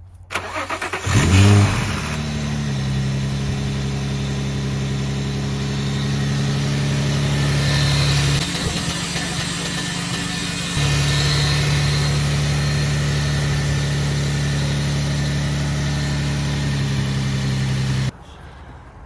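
Infiniti G35's VQ35DE 3.5-litre V6 starting up: it catches about a second in with a quick rise in revs, then settles into a steady idle. The sound cuts off abruptly near the end.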